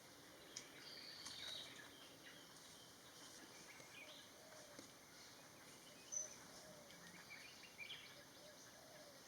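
Faint forest ambience with scattered short, high bird chirps. The loudest is a sharp note about six seconds in, and a couple more come near the end, over soft low wavering calls in the distance.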